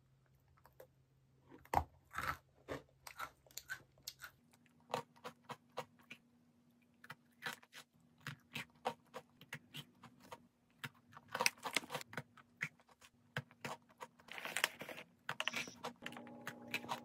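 Close-up chewing and crunching of crisp sablé butter cookies: many small, sharp crunches throughout, with a few louder, rustly bursts in the second half.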